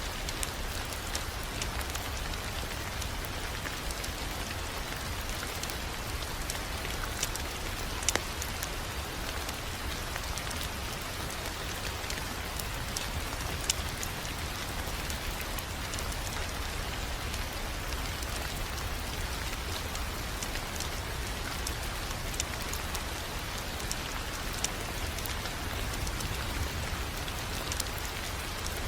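Wood fire crackling: a steady hiss with a low rumble under it and scattered sharp pops, the loudest about eight and fourteen seconds in.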